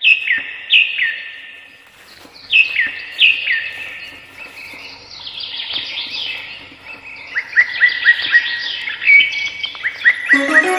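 Birds singing: loud whistled calls that slide down in pitch, repeated in pairs, then a quick run of short rising notes in the second half. Music begins just at the end.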